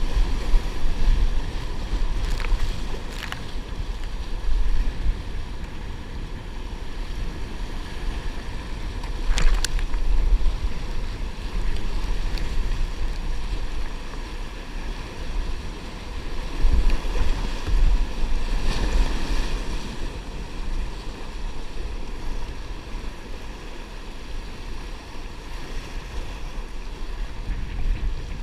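Wind buffeting the microphone over water sloshing around a kayak, with a few short sharp sounds now and then.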